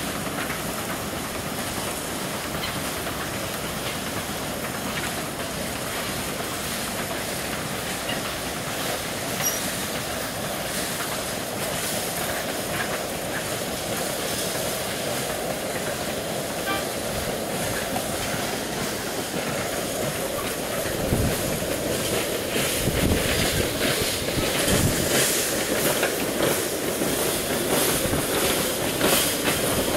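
Cane train hauling empty cane bins rolling past: steady running noise of the wagons on the track, getting louder about two-thirds of the way through with a run of sharp clicks.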